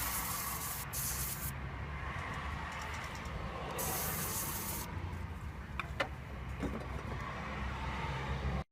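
Aerosol cleaner sprayed in short hissing bursts: one trailing off at the start, then two more, the last about a second long. A few light clicks follow about six seconds in.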